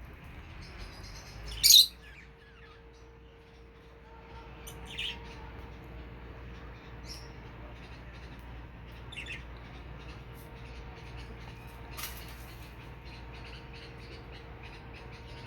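Lovebirds chirping and squawking: one loud, sharp squawk near the start, then scattered shorter high calls.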